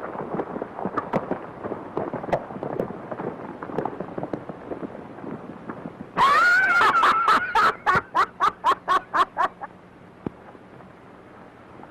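Irregular knocks and scuffles for several seconds, then a horse whinnying loudly: a high call that rises, wavers, and breaks into a rapid quavering trail of about five pulses a second before dying away.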